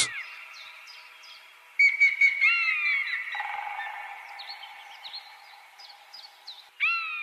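Birds calling: repeated short chirps and falling whistled notes over a thin steady whistle, louder about two seconds in and again near the end.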